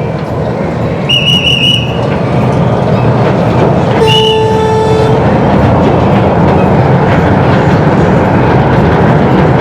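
Solar-powered miniature toy train running along its track, its rumble and wheel clatter growing steadily louder as it comes by. About a second in there is a high, pulsing beep, and about four seconds in a horn note held for about a second.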